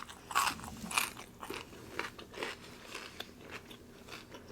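Close-miked chewing and crunching of a mouthful of food, a string of irregular crunches that are strongest in the first second or so and then softer.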